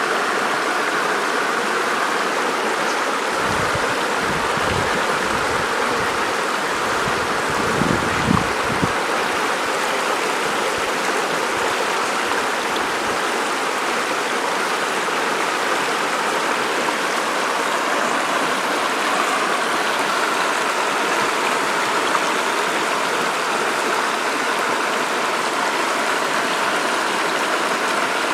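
River water flowing steadily, a constant even wash of noise, with a few low rumbles in the first third.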